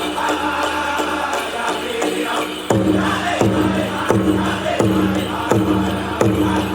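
Powwow drum group singing a chicken dance song in high voices around a big drum. About two and a half seconds in, heavy drum beats come in at about one every 0.7 seconds under the singing.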